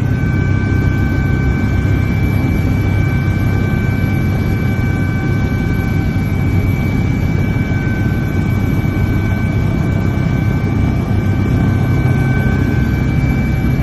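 Helicopter turbine engine and rotors running steadily: a loud, constant low rumble with a steady high-pitched whine.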